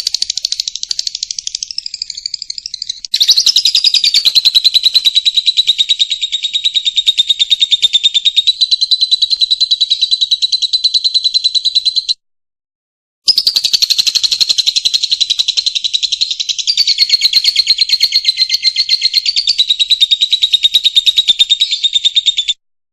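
Lovebird giving long, rapid chattering trills, each held for about nine seconds, with a break of about a second between them. This long unbroken trill is the 'ngekek' song that lovebird keepers prize.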